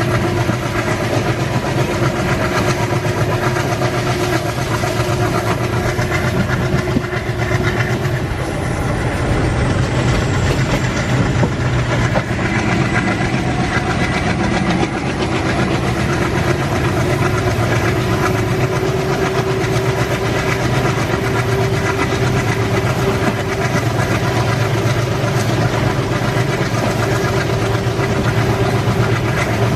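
Indian Railways train running, with continuous wheel-and-rail noise and a steady mechanical hum.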